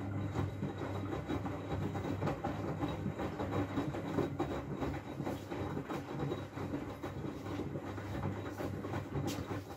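Miele W433S front-loading washing machine turning its drum during a high-water-level rinse: a steady low motor hum with water sloshing and laundry churning, stopping near the end as the drum pauses.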